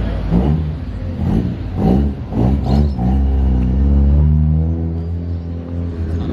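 Car engine revving in several quick blips over the first three seconds, then held steady at raised revs for about three seconds.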